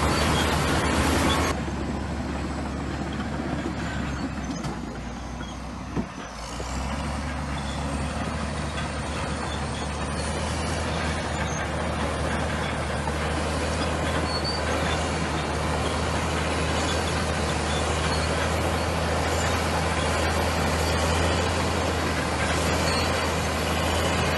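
Komatsu bulldozer's diesel engine running steadily, with the clatter of the machine working. It drops back about a second and a half in, with a single sharp knock about six seconds in, then settles into steady running again.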